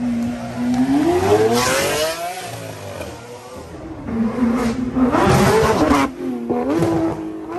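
Supercar engines revving hard as the cars pull away one after another. One engine note climbs sharply about a second in and falls away, and more revs rise and fall in the last few seconds.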